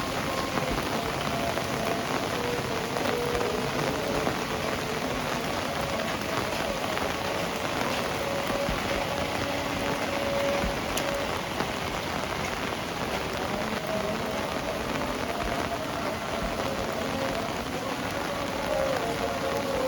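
Heavy rain falling and pattering on surfaces, a steady, even hiss.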